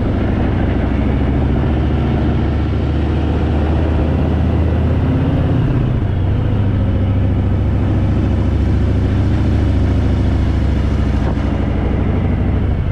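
Harley-Davidson Fat Boy's V-twin engine running under load as the bike rides uphill. Its note climbs and then drops about six seconds in.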